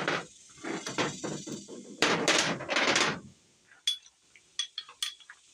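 Impact wrench rattling, loudest for about a second near the middle, as fasteners at the timing chain of a small-block V8 are zipped off. It is followed by several light metallic clinks of parts being handled.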